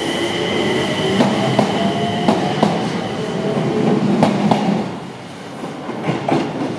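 Enshu Railway electric train running close past, with a steady high whine and its wheels clicking irregularly over rail joints. The sound drops away about five seconds in as the last car clears.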